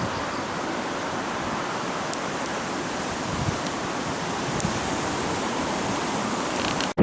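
Steady rushing of a swollen, flood-stage river. The noise is even, with no distinct events, and cuts off abruptly for a moment near the end.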